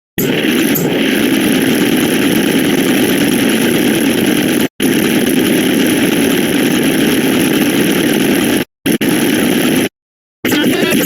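A dense wall of many sound effects layered and playing at once, heard as a loud, steady, hissing buzz. It cuts out to silence for a split second a few times.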